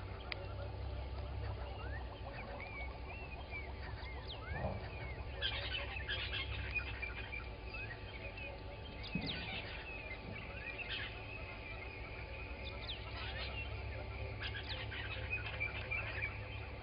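Morning chorus of many wild birds at a waterhole: overlapping short chirps and whistles, some sliding up or down in pitch, with a few louder calls, over a steady low hum.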